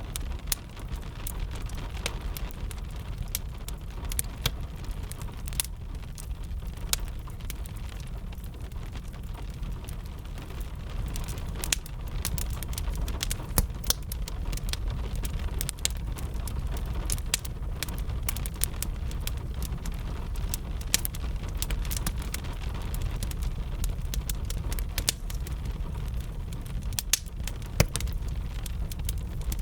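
Fire crackling with sharp, irregular pops over a steady low rumble, mixed with gentle rain.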